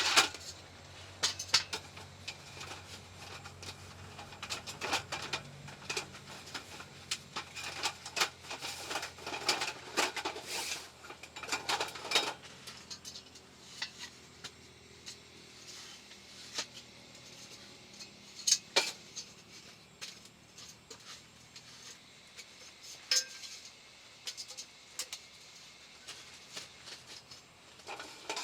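Irregular light clinks and knocks of hard objects being handled, dense for about the first twelve seconds and then sparser, with a few sharper knocks later on.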